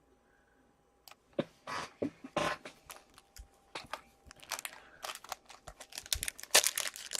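Plastic and foil card packaging being crinkled and torn open by hand: sharp crackles and rustles start about a second in and grow busier toward the end.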